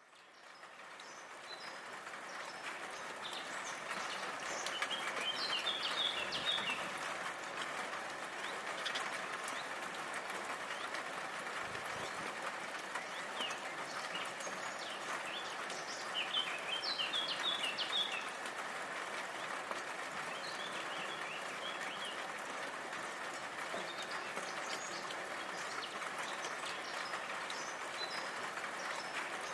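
Steady rain falling, fading in over the first few seconds, with small birds chirping in short runs of quick high notes over it, clearest about five, sixteen and twenty seconds in.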